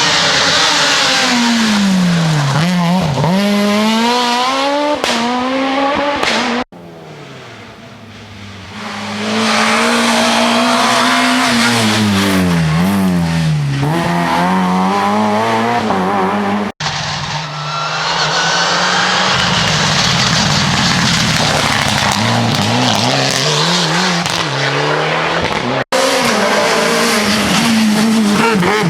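Rally car engines revving hard, the pitch dropping as the car brakes and climbing again as it accelerates away, with tyres squealing as the cars slide. The sound breaks off abruptly three times where separate clips are cut together.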